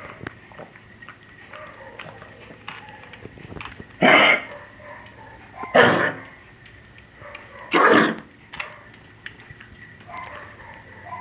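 An old dog coughing three times, about two seconds apart, starting about four seconds in; the cough comes from congestive heart failure.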